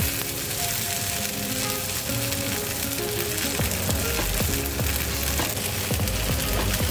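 Potato and leek patties shallow-frying in hot olive oil in a pan, a steady sizzle.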